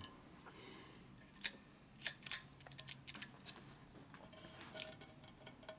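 Scattered light metallic clicks and small scrapes from handling the chrome-plated primary cover and its flaking chrome, a cluster of them about two seconds in, over a faint steady machine hum.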